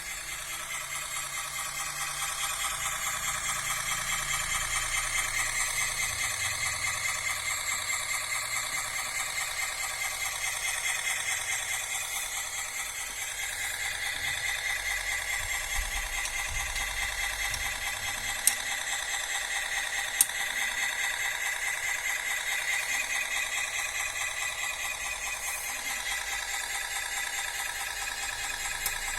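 Radio-controlled scale model Cat bulldozer running: a steady whine from its electric drive and gears, wavering slowly in pitch, with its tracks rattling. Two sharp clicks come about two-thirds of the way through.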